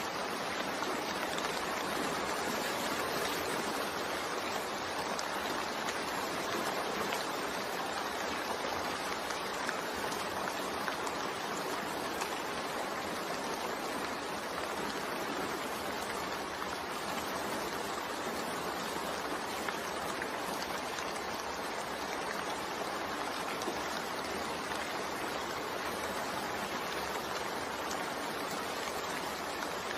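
Steady, unbroken rain layered with white noise, an even hiss with no drops or thunder standing out.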